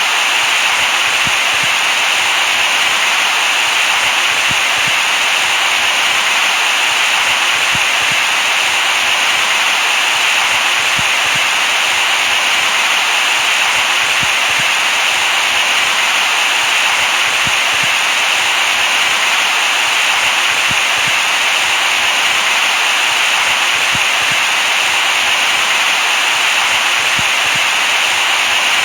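Steady white-noise hiss, loud and unchanging, with its energy in the upper-middle range and little bass.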